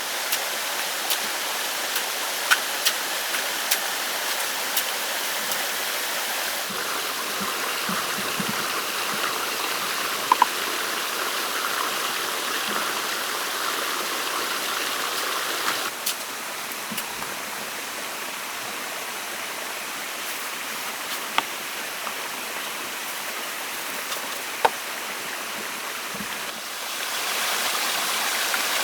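Steady rush of flowing stream water, with a few scattered sharp clicks. The level dips a little about halfway through and rises again shortly before the end.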